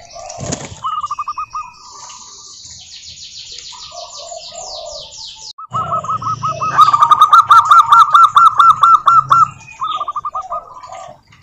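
Zebra doves singing their rapid staccato cooing phrases, with a long, loud run of about five notes a second in the second half. Smaller birds chirp high, quick descending notes in between.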